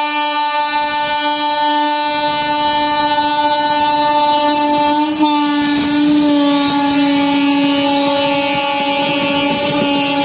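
Indian Railways locomotive horn held in one long blast, with a short break about five seconds in and its pitch dropping slightly just after, as an express passes at speed. The rumble of the train running through grows from about two seconds in.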